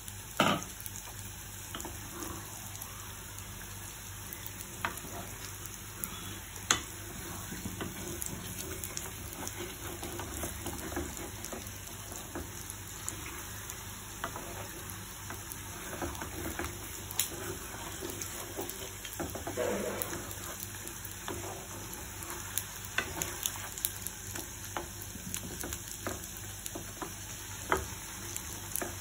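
Chicken curry sizzling as it fries in a pan, stirred with a utensil that knocks against the pan now and then. The loudest clack comes right at the start.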